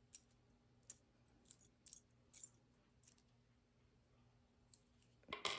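Small metal feather and leaf charms clinking faintly as they are handled, a scatter of light clicks with a louder clink near the end.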